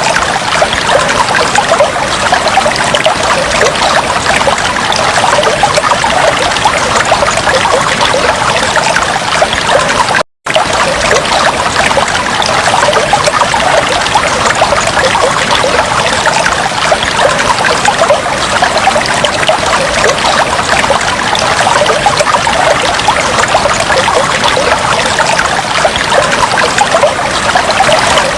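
Fish-tank water bubbling and trickling steadily, with a split-second dropout to silence about ten seconds in.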